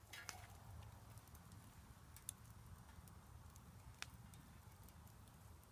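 Faint campfire crackle: a few scattered sharp pops over a low steady rumble.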